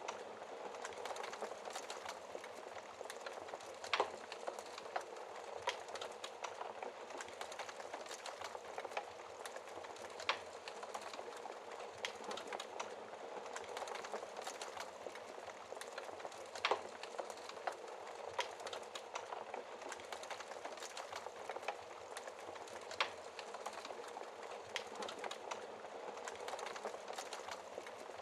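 Wood fire crackling, with irregular sharp pops and snaps of burning logs, a few louder ones spread several seconds apart, over a steady hiss of rain.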